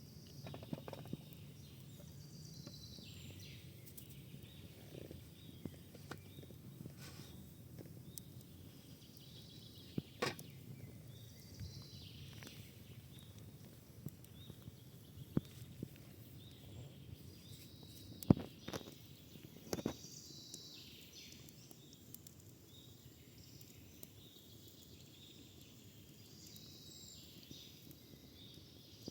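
Quiet outdoor ambience with birds chirping now and then, and a few sharp clicks and knocks scattered through it, the loudest about eighteen seconds in.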